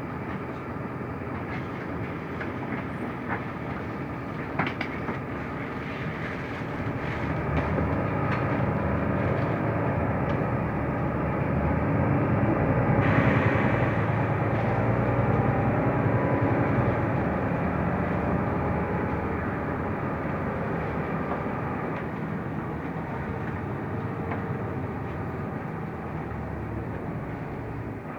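Interior running noise of a Mercedes-Benz Türk O345 Conecto LF low-floor city bus on the move: engine and road rumble that grows louder toward the middle and eases off gradually afterwards.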